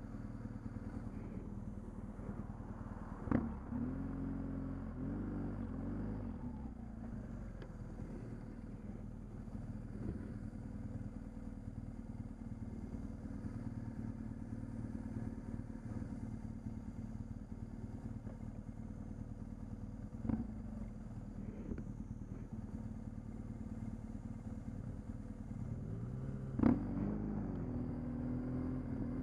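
Motorcycle engine idling steadily. Twice, about three seconds in and again near the end, there is a sharp click followed by a brief rise and fall in engine pitch.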